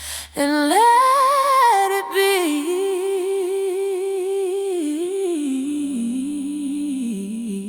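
A solo voice humming a wordless melody with vibrato, rising in pitch at first and then settling lower, over sparse music; a low sustained note comes in about two-thirds of the way through.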